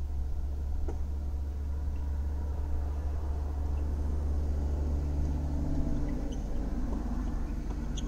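Steady low rumble of a car idling, heard from inside its cabin, with a second engine hum growing louder in the second half. A faint sharp pock of a tennis ball off a racket comes about a second in.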